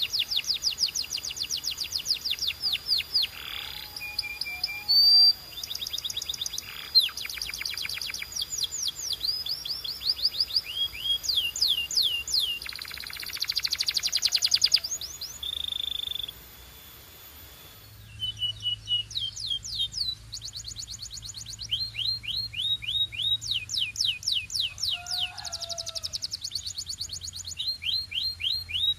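Canary singing: fast rolls of rapidly repeated down-slurred notes and trills, with a held whistled note and a short pause about halfway through before the rolls resume.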